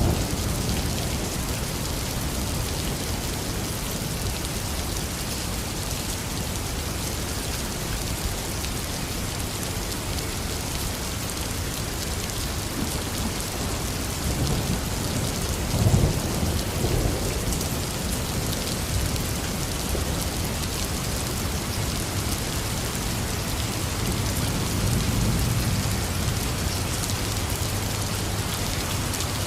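Heavy, steady rain pattering on surfaces, with a short low rumble of thunder about halfway through and a softer rumble near the end.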